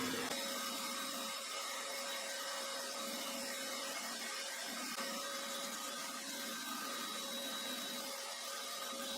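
A small motor running with a steady whir at one even pitch.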